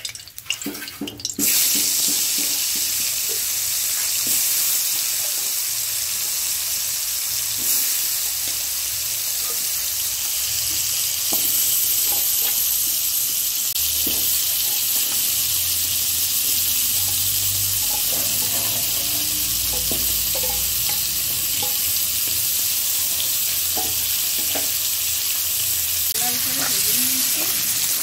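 Potato chunks frying in hot mustard oil in a metal wok: a steady sizzle that starts suddenly about a second and a half in, with occasional light taps and scrapes of a metal ladle stirring them.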